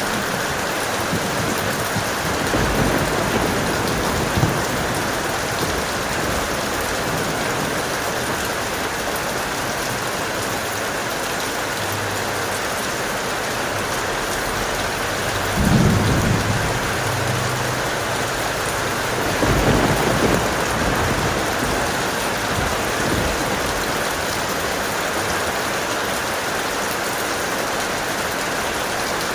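Heavy steady rain with rolls of thunder: a low rumble about 16 seconds in and another about 20 seconds in, with fainter rumbles early on.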